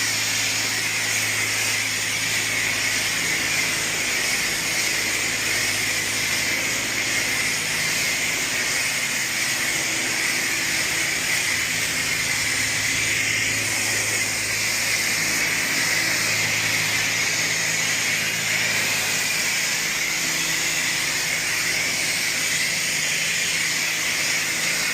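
Self-serve car wash spray wand spraying clear coat: a steady, loud hiss of spray.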